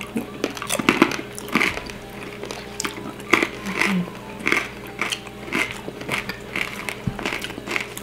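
Crunching and chewing of crispy deep-fried pork skin (crispy pata), with short crackly bites about twice a second.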